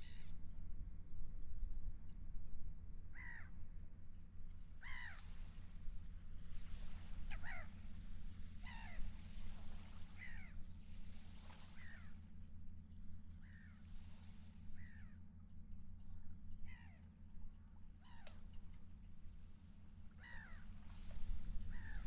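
Seagulls calling repeatedly, about a dozen short cries one every second or two, over a steady low rumble.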